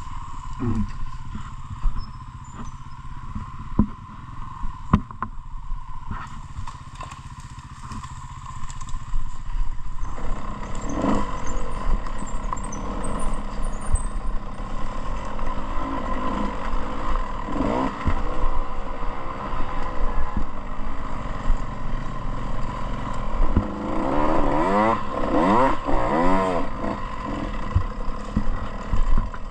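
Dirt bike engine running at low revs with scattered knocks and rattles, growing louder about ten seconds in, then revving up and down several times in quick succession near the end.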